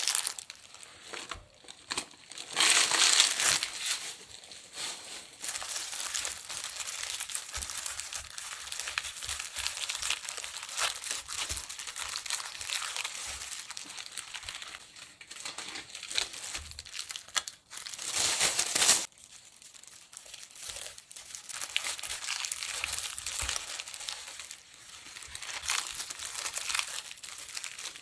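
Continuous crinkling, crackling noise, growing louder twice: for about a second and a half near the start and again for about a second and a half near the middle.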